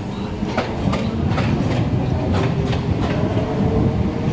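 EMU electric local train running, heard from on board: a steady rumble with the wheels clicking over rail joints, the clicks coming in pairs about once a second.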